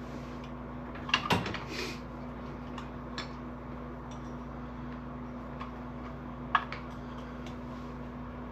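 Handling noises: a few sharp clicks and knocks, a cluster about a second in with a short scraping rustle, and one more click later, over a steady low hum.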